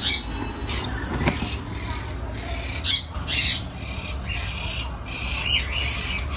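Parrots squawking in an aviary: a string of short, harsh squawks, about one or two a second, over a steady low hum.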